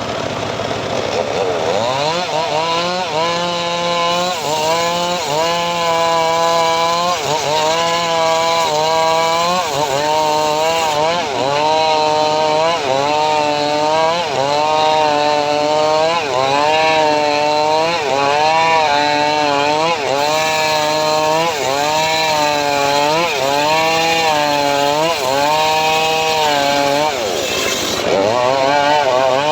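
Engine of a homemade teak-cutting saw rig running hard and sawing wood. Its pitch climbs at the start, then rises and sags in a regular cycle about every second and a bit as the cut loads and unloads it.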